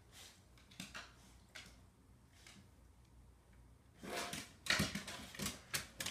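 A dog's paws and claws clicking and tapping on stairs: a few faint taps early, then a quick run of clicks starting about four seconds in.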